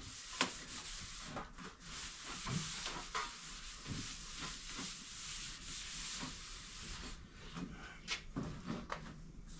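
Rubbing and wiping with a shop towel: a steady scrubbing hiss with a few light knocks as parts are handled.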